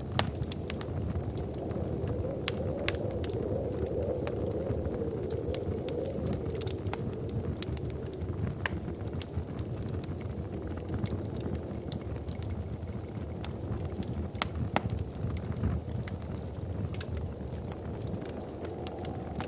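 Wood fire burning in a fireplace: a steady low rumble of flames with scattered sharp crackles and pops at irregular times.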